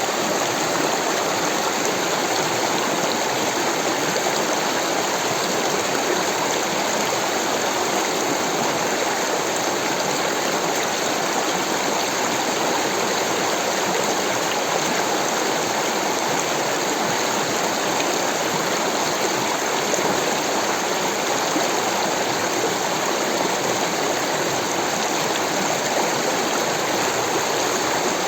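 Rushing water, a steady, unbroken flow as of a stream or small waterfall.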